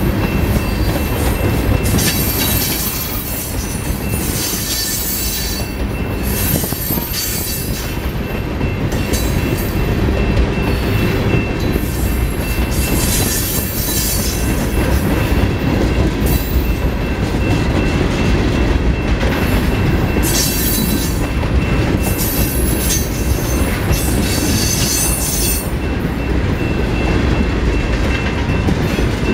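Freight train tank cars rolling past on jointed track with a steady, loud rumble of wheels on rail. Several times, for a second or two, the wheels give a high-pitched squeal.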